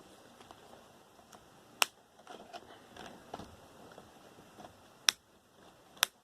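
Computer cables being cut for scrap copper: three sharp snips, the first about two seconds in and two more near the end, over quiet rustling of cable and parts being handled.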